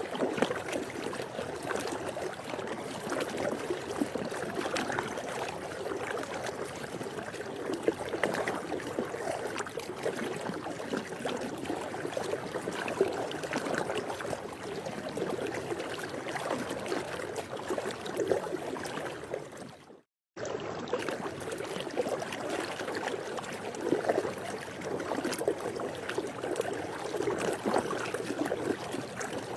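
Swimming-pool water ambience: a steady, noisy wash of moving water with small irregular spikes throughout. It fades and cuts out for about half a second about two-thirds of the way in, then resumes.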